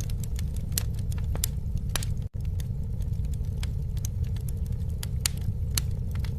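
Campfire crackling: scattered sharp pops and snaps over a steady low rumble, with a brief dropout about two seconds in.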